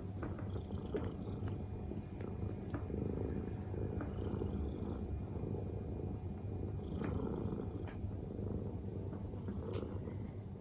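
Ragdoll cat purring steadily, a low continuous rumble close to the microphone.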